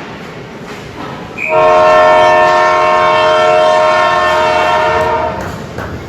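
Arena horn sounding one long steady blast of about four seconds, starting about a second and a half in.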